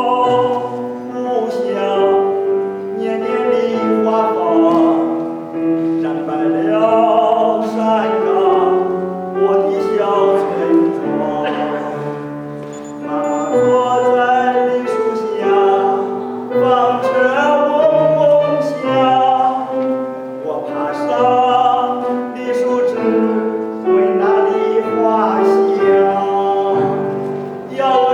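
Classical-style singing with strong vibrato over instrumental accompaniment, performed live at a concert. Long sustained phrases with short breaths between them, about every six or seven seconds.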